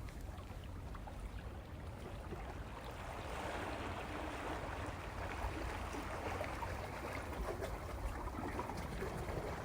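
Sea waves washing over a rocky shore. The wash swells about three seconds in and stays fuller after that, over a steady low background.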